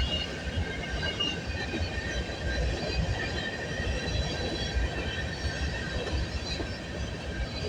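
A CN freight train's cars rolling past at trackside, with a steady rumble of wheels on rail and thin, steady high-pitched wheel squeal throughout.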